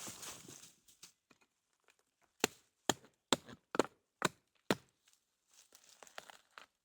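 Rustling of branches and leaves, then six sharp strikes of a tomahawk on wood, evenly spaced about half a second apart, followed by more rustling near the end.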